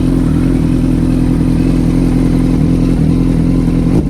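Suzuki GSX-R 1000 inline-four engine idling steadily while warming up after a cold start, with no revving.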